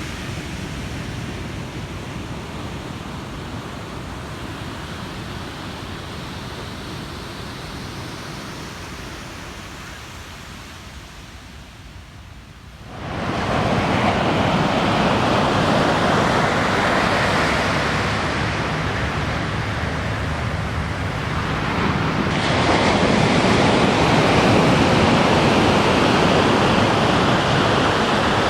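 Ocean surf washing on a beach: a steady rush that ebbs into a lull, then a wave breaks and crashes loudly about thirteen seconds in, with another surge about twenty-two seconds in.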